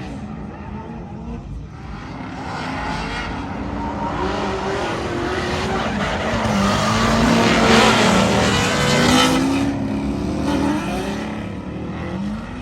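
Drift cars at full throttle, their engines revving up and down as the tyres squeal and slide. It builds to its loudest about two-thirds of the way through, then eases off.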